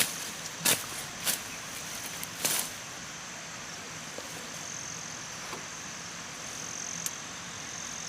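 Insects chirring steadily in a high, thin drone, which grows a little stronger after about five seconds. Four sharp knocks come in the first three seconds.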